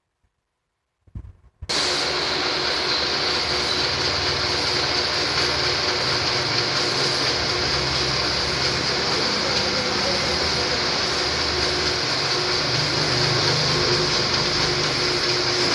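Cylinder boring machine switching on about two seconds in and running steadily as it rebores a Colt diesel engine block, a constant machine noise with a steady high whine over it.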